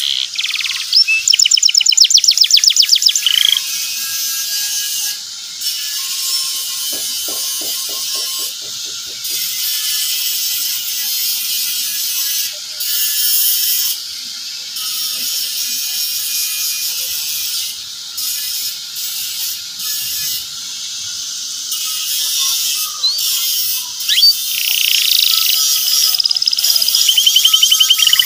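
Domestic canary singing continuously in high chirps and fast rattling trills, with a run of rapid repeated notes about a second in and another near the end.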